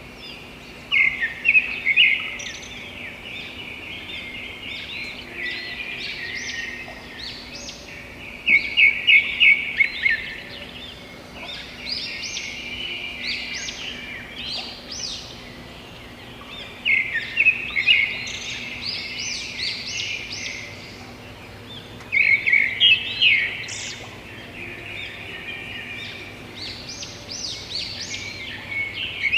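Birdsong: one bird repeats a loud phrase of quick, rapid notes every five to eight seconds, over a steady background chorus of other birds chirping.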